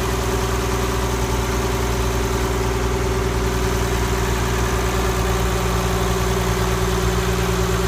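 Ford Lehman 120 six-cylinder marine diesel running steadily a little above idle, on test with a freshly rebuilt injection pump.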